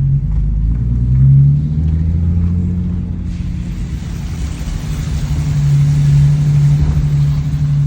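BMW E46 on the move: the engine runs with a steady low drone and rumble, and from about three seconds in a wider hiss of road and drivetrain noise joins it. The rumble is the grinding undercarriage noise that the owner fears is the gearbox or the differential.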